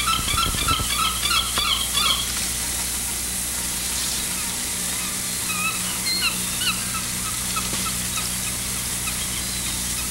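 Birds calling: a quick run of short, bending chirps for about the first two seconds, then a few scattered calls later. Under them runs a steady electrical hum and tape hiss.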